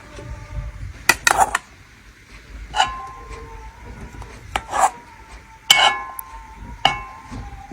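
Metal cooking pots and utensils clinking and knocking together, about six separate strikes, several leaving a brief metallic ring.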